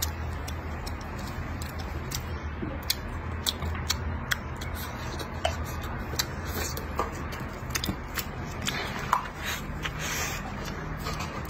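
Close-miked chewing and wet mouth clicks of a person eating stir-fried pork belly and tofu, with irregular smacks scattered over a steady low hum.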